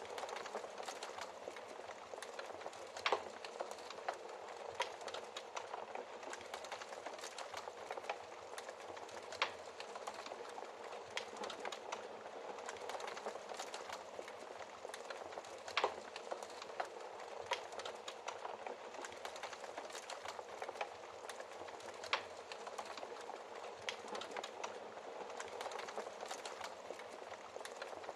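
Wood fire in a fireplace crackling: a steady soft hiss with irregular snaps and pops, a few of them much louder than the rest.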